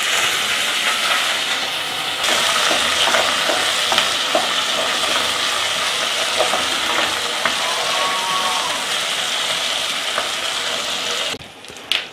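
Shallots and garlic sizzling in hot wood-pressed sesame oil in a clay pot, with a wooden spoon clicking against the pot now and then as they are stirred. The sizzle stops abruptly about a second before the end.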